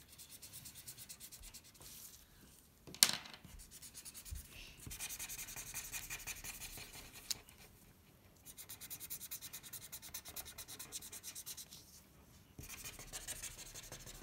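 Markers scribbling quickly back and forth on paper, colouring in, in several bouts with short pauses between them. A single sharp click about three seconds in is the loudest sound.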